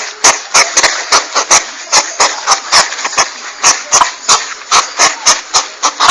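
Porcupine sounds: a fast, even run of sharp clicks, about four a second, over a steady hiss.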